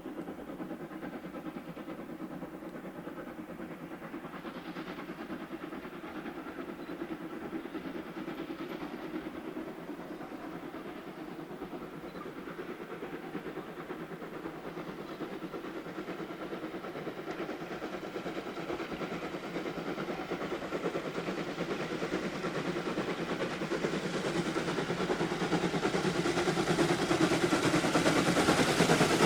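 Steam locomotive approaching, its exhaust and running sounds growing steadily louder.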